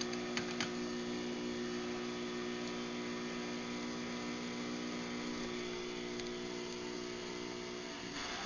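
Craftsman garage door opener motor running steadily with an even hum through its closing cycle, with a few clicks near the start.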